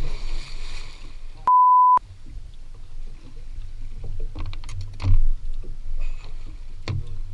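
A single half-second 1 kHz censor bleep about a second and a half in, with all other sound cut out while it plays. Around it are low rumbling background and handling noise and a few sharp knocks, the loudest about five seconds in.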